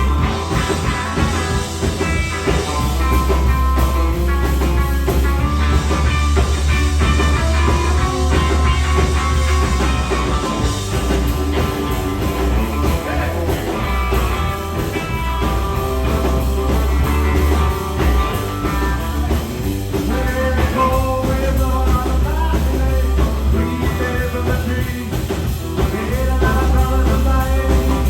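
Live rock band playing: electric guitar lines over electric bass and a drum kit, loud and continuous.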